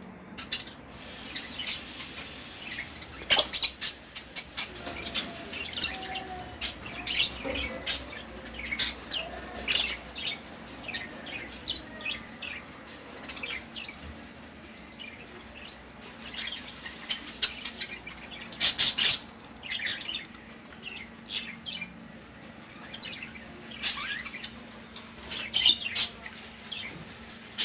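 Caged pet birds chirping in short, sharp calls, with bursts of wing fluttering and a loud knock about three seconds in.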